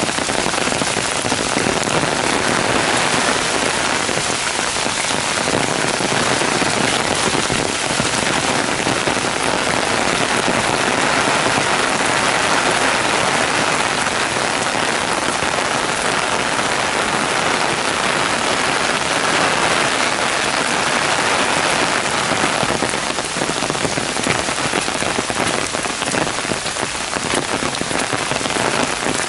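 Heavy downpour of rain falling on trees, grass and a wet, puddled footpath: a loud, steady, even hiss.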